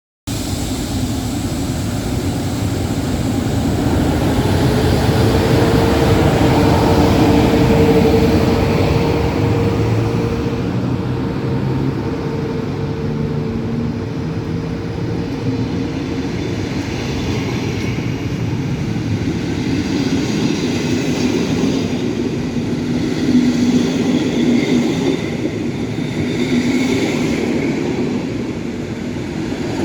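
Train running past on the rails: a steady rumble that builds to its loudest several seconds in, with a humming tone that holds for about ten seconds and then fades out.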